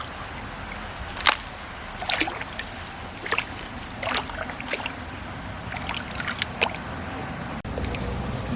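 Water sloshing and trickling, with sharp splashes or knocks about once a second.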